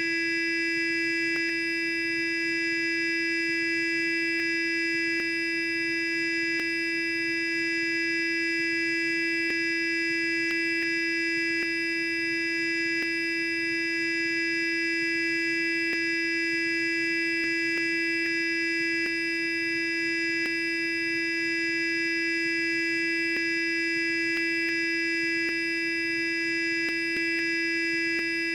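Sonic electric toothbrush running continuously: a steady, unchanging high buzz.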